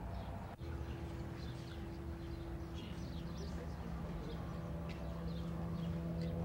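Small birds chirping in short, quick calls over a steady low hum.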